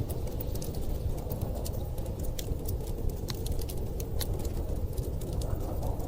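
Wood fire crackling, with frequent irregular sharp pops, over a steady low rumble of storm wind.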